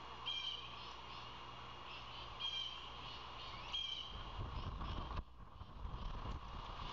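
A bird calling with short, evenly pitched calls, three times about a second and a half to two seconds apart. A low rumbling noise joins in about four seconds in.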